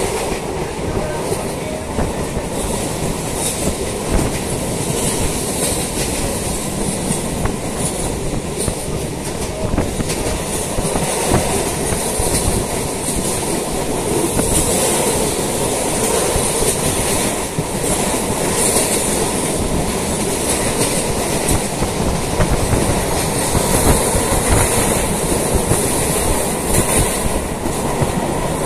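Suburban electric local train (EMU) running at speed, with a steady rumble of wheels on track and a continual clickety-clack over the rail joints.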